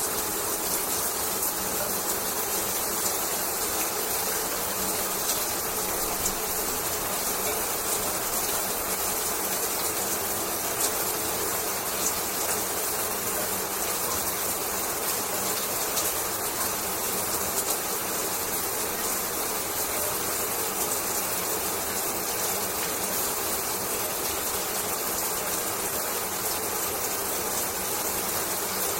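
Shower water running steadily, the spray making an even hiss with a few small splatters.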